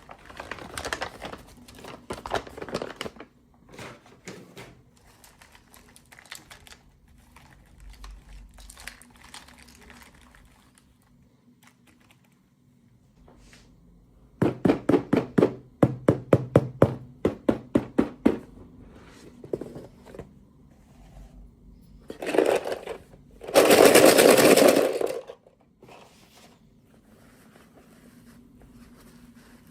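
Hands handling and opening toy packaging: scattered crinkling and rustling, then a quick run of loud clicks at about five a second in the middle, and a short loud rasp near the end.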